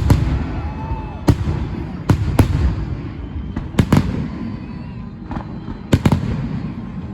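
Fireworks shells bursting in a salute display: a sharp bang every second or so, some in quick pairs, over a continuous low rumble of echoing bursts.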